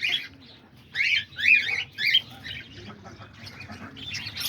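Small caged aviary birds calling: a few sharp, rising-and-falling calls about one to two seconds in, then softer chirping that builds into dense, high flock chatter near the end.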